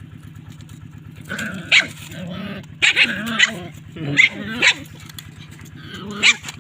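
Dogs quarrelling, with about four harsh outbursts of barking and growling. A motor idles steadily underneath.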